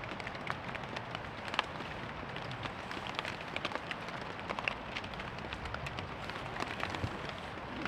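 Steady rain falling, with many separate drops pattering irregularly over a constant hiss.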